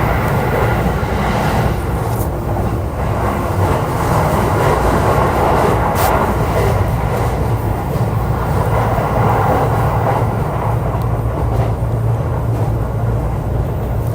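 JR East E531 series electric multiple unit running at steady speed: a continuous rumble of wheels on rail, with a few faint sharp clicks.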